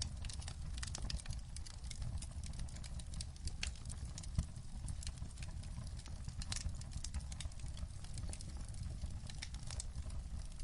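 Wood fire crackling in a fireplace: dense, irregular sharp pops and snaps over a low steady rumble, with one louder pop about four seconds in.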